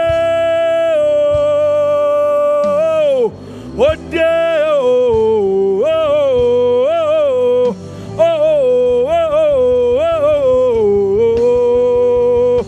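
Wordless worship singing: one voice holds a long, steady note, breaks off, then runs through wavering, ornamented notes over a steady sustained accompaniment.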